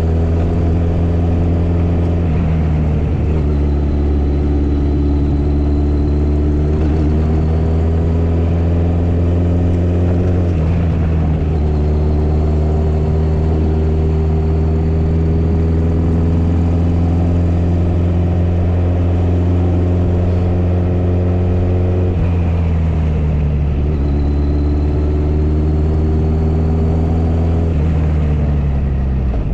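Motorcycle engine running steadily under way. Its pitch climbs slowly and steps a few times during the stretch.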